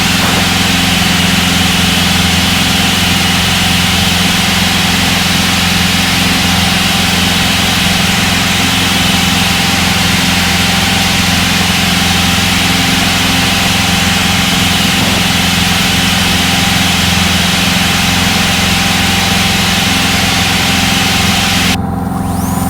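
Citabria 7ECA's engine and propeller running steadily in the climb after takeoff, a steady drone with rushing noise as heard inside the cockpit. Near the end the higher rushing noise cuts out suddenly.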